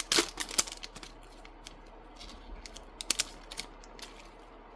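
Trading cards and their foil booster-pack wrapper being handled: quick crisp clicks and rustles, clustered at the start and again about three seconds in.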